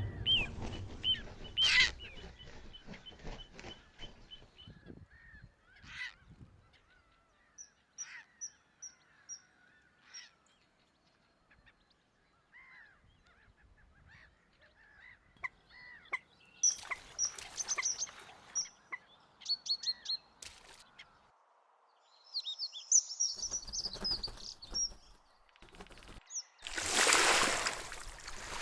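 Wild birds calling: scattered short calls and chirps, some of them honking, with a loud rushing burst of noise near the end.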